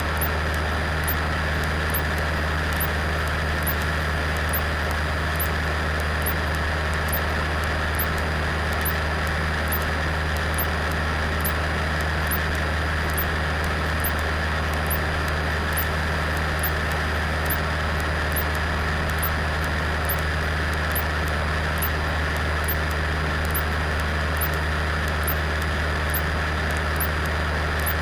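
Cessna 172 Skyhawk's piston engine and propeller running steadily, a constant drone inside the cabin of the small plane on its landing approach. A faint click repeats about once a second.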